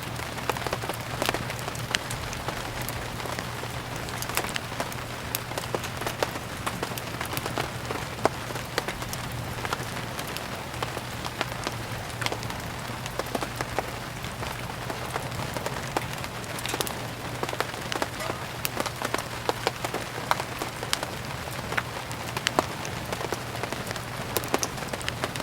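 Steady rain, mixed with the irregular sharp crackles and pops of burning firewood.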